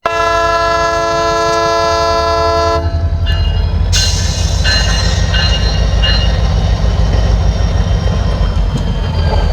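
Train horn sounding a steady chord for about three seconds, then cutting off into the steady low rumble of the moving train, with a few brief high tones about five seconds in.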